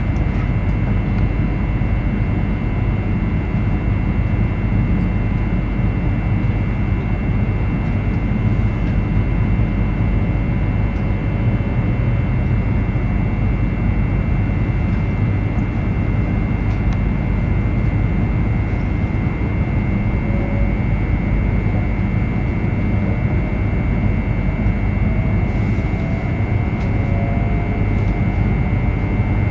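Steady cabin noise inside a JR East E2 series Shinkansen on the move: a low rumble from the wheels and running gear, with a steady high whine over it.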